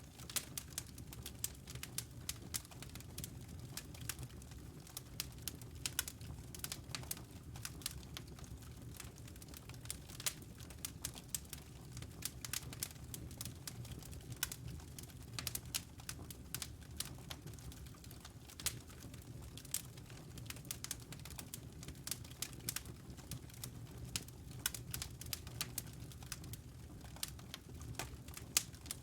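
Wood fire crackling in a fireplace: dense, irregular small pops and snaps over a steady low hum.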